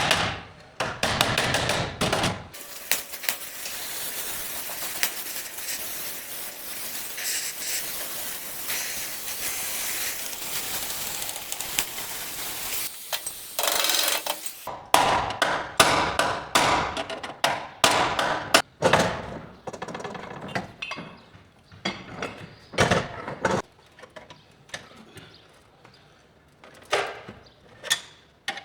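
Auto body work on sheet metal: a steady hiss for about ten seconds, then from about halfway in, irregular hammer blows on a car body panel, coming in runs with short pauses.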